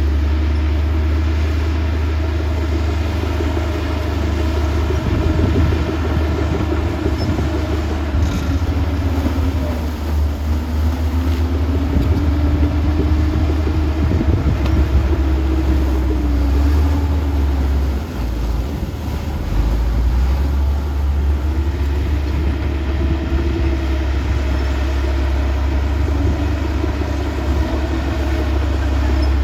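Heavy earthmoving machinery's diesel engine running, its pitch rising and falling repeatedly as it works under changing load, over a deep low rumble.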